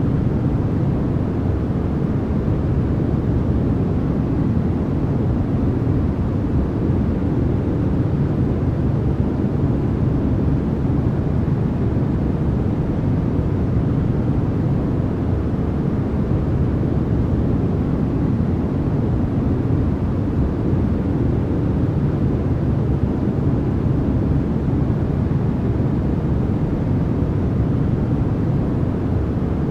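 Continuous, unchanging sleep noise, a steady deep rush with most of its weight in the bass and little hiss in the treble.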